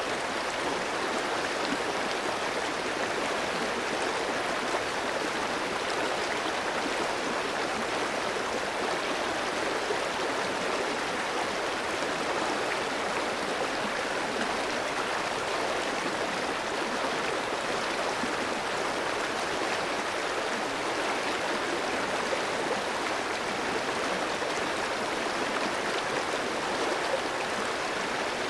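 A clear stream running over rocks, a steady rushing and babbling of flowing water.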